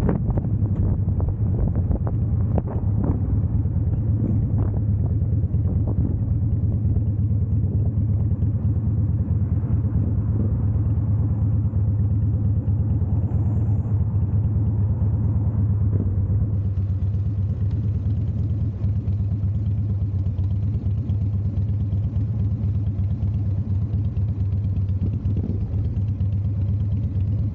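Harley-Davidson V-twin motorcycle engine running with a steady low rumble, with wind buffeting the microphone in the first several seconds while the bike is moving.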